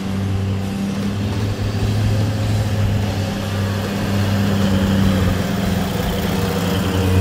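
Toyota LandCruiser's engine running with a steady low drone, under load in low-range four-wheel drive while towing a heavy caravan through soft sand.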